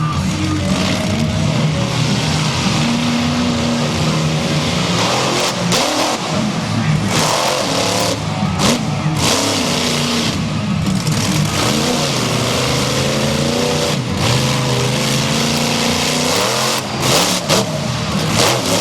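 Monster truck engine revving hard, its pitch rising and falling repeatedly, with several sharp knocks in the second half.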